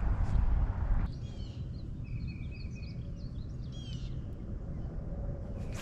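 A songbird calling with a quick string of varied chirps, sweeping notes and one short held whistle, from about a second in to near the end. Under it a low rumble of wind on the microphone, loudest in the first second.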